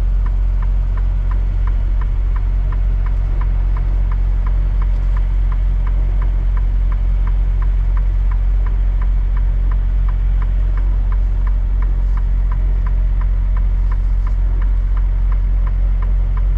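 Semi truck's diesel engine running low and steady, heard from inside the cab while reversing slowly, with an even ticking about three times a second.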